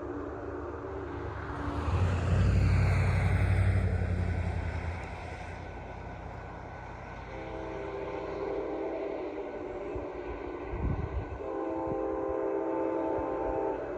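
Amtrak Vermonter passenger train sounding its multi-tone horn: a blast ending just after the start, then two long blasts of about two to three seconds each, in the middle and near the end. Under it runs the low rumble of the moving train, which swells loudest between about two and five seconds in.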